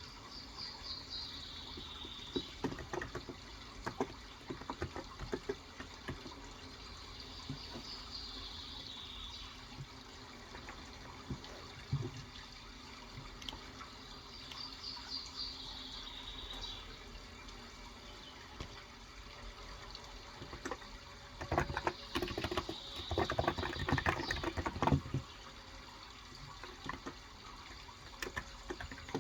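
Typing on a Cox Endeavor tenkeyless keyboard with 35 g electro-capacitive (Topre-style) switches, in scattered keystrokes early on and a dense burst about three-quarters of the way through, over a steady running-water background. A bird's short falling phrase repeats three times, about seven seconds apart, in the first half.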